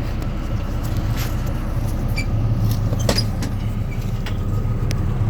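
A vehicle engine running steadily with a low, even hum, and a few light clicks over it.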